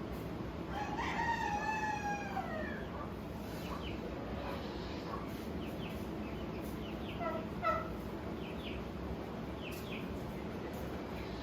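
A rooster crowing once about a second in, the long call falling in pitch at its end, then a few short clucks near the end over a steady low barnyard background noise.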